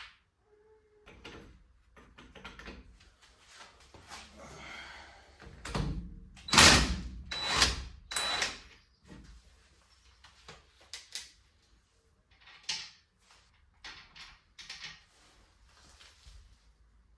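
Knocks and scraping on the Opel Corsa B's rear brake drum as it is worked off the hub. A cluster of four loud strikes comes about six seconds in, with lighter taps and scrapes before and after.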